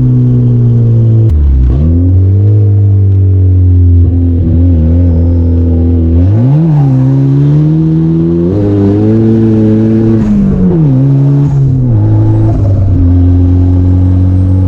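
Turbocharged drift car's engine running and being driven. Its pitch falls sharply about a second in, climbs and dips quickly a few times in the middle, and drops again near the end, as it moves through revs and gear changes.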